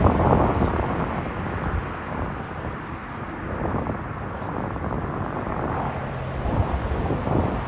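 Steady, low, rumbling outdoor noise, like distant traffic or a passing aircraft, swelling and fading slightly.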